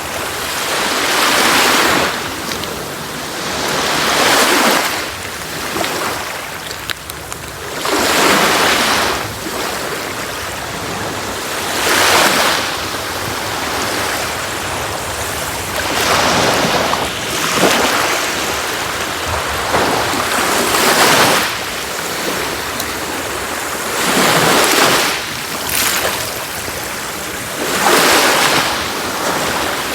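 Sea waves breaking and washing up a beach, one surge every three to four seconds over a steady hiss of surf.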